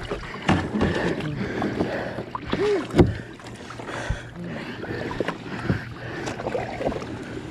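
Kayak on the water: paddle splashes with scattered knocks and clicks against the hull.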